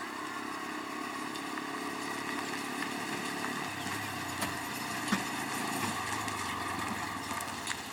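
Vehicle engine running steadily. About halfway through, its note drops lower.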